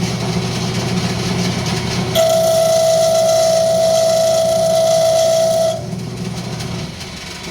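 Wood lathe running while a parting tool cuts into spinning rosewood. About two seconds in the cut sets up a steady high-pitched squeal that stops after about three and a half seconds, and the lathe's hum dies away near the end.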